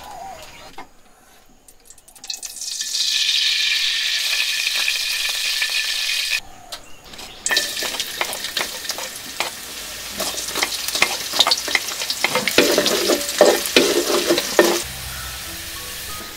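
Oil in a large iron wok sizzles with a steady hiss. Chopped ginger dropped into the hot oil then crackles and sizzles, and a spatula stirs and scrapes against the wok for a couple of seconds near the end.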